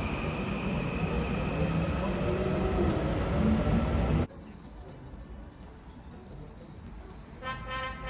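Train running past on the railway line: a loud rumble with a steady high whine, growing louder, cut off abruptly about four seconds in. Quieter room noise follows, and music starts near the end.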